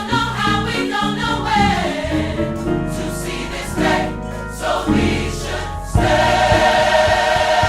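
Gospel choir singing with musical backing; about six seconds in the voices swell louder into a long held chord.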